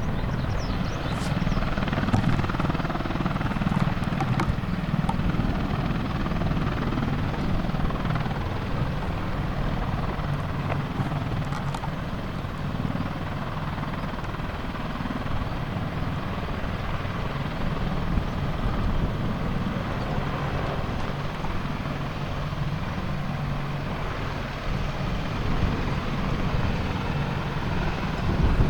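AH-64D Apache attack helicopter running steadily: the sound of its rotors and twin turboshaft engines, heaviest in the low range and without a break.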